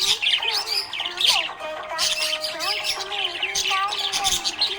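Budgerigars chirping rapidly and continuously, with music playing underneath.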